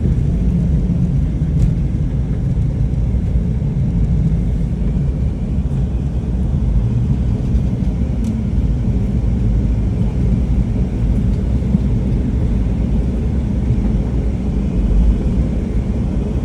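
Boeing 737 jet airliner's steady low rumble during its landing, even throughout with no sharp events.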